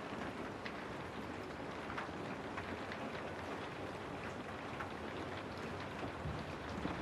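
Steady rain falling, a dense even hiss with scattered sharper ticks of individual drops striking a surface.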